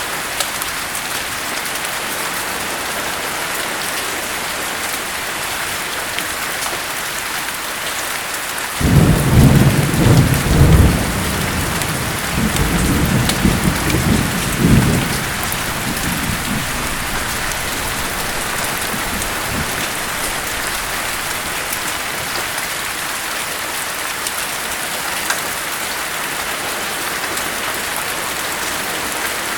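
Steady heavy rain falling, with one clap of thunder breaking in sharply about a third of the way through, rumbling loudly for several seconds and dying away.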